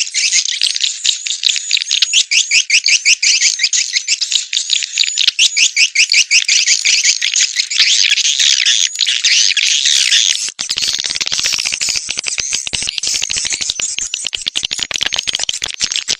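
Swiftlet call recording used to lure wild swiftlets into a swiftlet house: a dense, fast chirping twitter of many swiftlets. The texture changes abruptly about ten seconds in.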